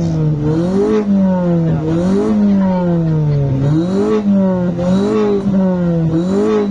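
Compact sedan's engine revved repeatedly through its exhaust, the pitch rising quickly and falling back slowly about five times.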